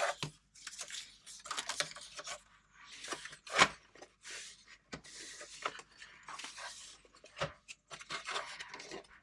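Screwdriver work on a sewing machine's metal top cover as its screws are taken out: a run of short scrapes and clicks, with one sharp knock about three and a half seconds in.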